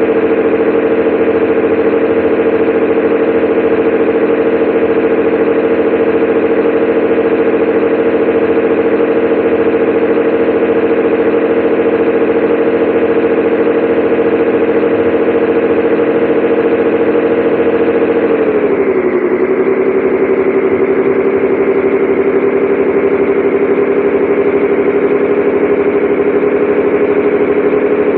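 Scania 113H 360 truck's diesel engine running steadily; about two-thirds of the way through the revs drop briefly and it carries on at a slightly lower pitch.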